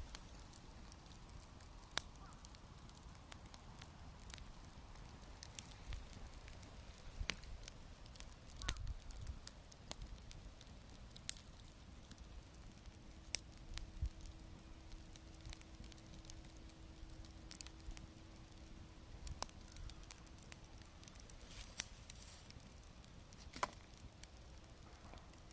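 Small wood bonfire crackling: irregular sharp pops and snaps, a few a second at most, over a faint steady hiss.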